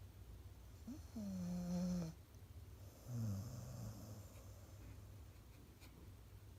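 Golden retriever snoring in its sleep: a pitched snore about a second in, lasting about a second, then a lower, shorter snore at about three seconds.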